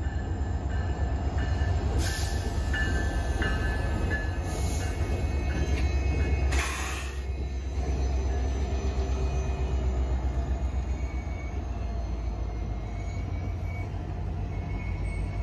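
Alaska Railroad diesel-electric locomotives rumble past with a deep, steady engine sound, hauling a passenger train along the platform. A high squeal from the wheels comes and goes in the first half, with a few short hisses.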